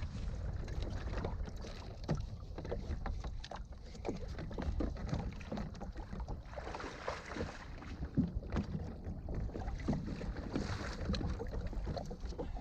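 A kayak on the water: irregular small knocks and splashes of water and paddle around the hull, over a low rumble of wind on the microphone.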